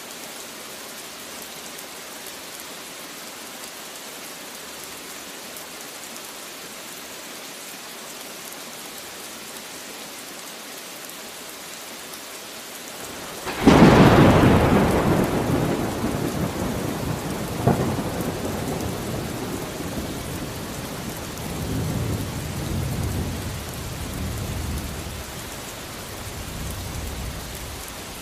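Steady rain falling, then about halfway through a loud thunderclap cracks suddenly and rolls off into long low rumbling, with a second sharp crack a few seconds later and further rumbles fading out near the end.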